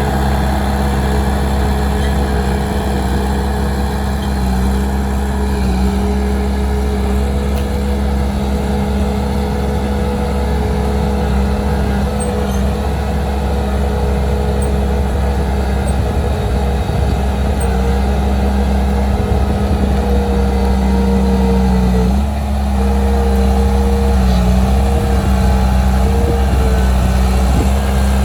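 Heavy diesel engine of earthmoving machinery running steadily, with a short dip in level and pitch about 22 seconds in.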